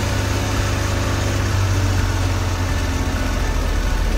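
Recorded car engine idling, a steady low rumble with no change in pace, played as a toy school bus is driven along.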